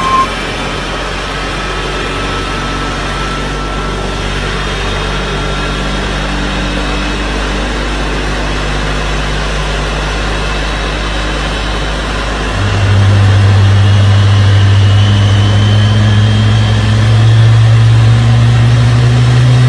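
A steady mechanical engine drone with a hiss. About two-thirds of the way in it grows louder, with a strong deep hum that creeps slightly higher in pitch near the end.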